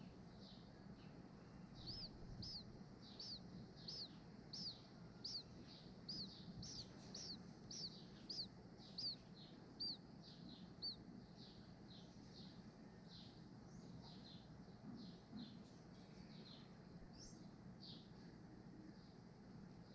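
A small bird giving a long run of short, high chirps, about three every two seconds, loudest in the first half and trailing off into fainter chirps.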